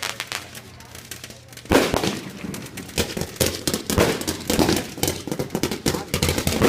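A string of firecrackers going off in rapid, irregular cracks, starting with a loud bang about two seconds in.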